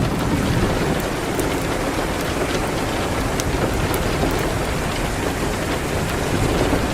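Steady rain, a dense even hiss, with a few faint sharp ticks scattered through it.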